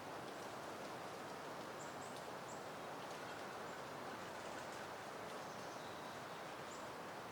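Steady, soft wind rustling through flowering plants. A few faint, short, high bird chirps come about two seconds in and again near the end.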